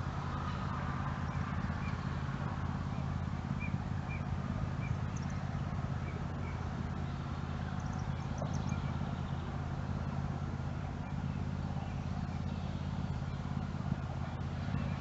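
Short bird chirps: a run of similar notes about twice a second a few seconds in, then a few higher, thinner chirps, over a steady low rumble.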